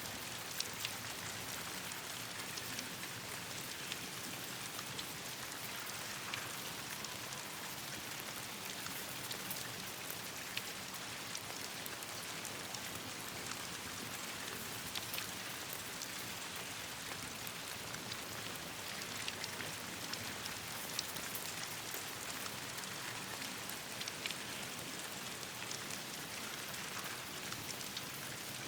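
Steady rain falling, an even hiss of rain on leaves, with a campfire crackling in scattered sharp pops and clicks throughout.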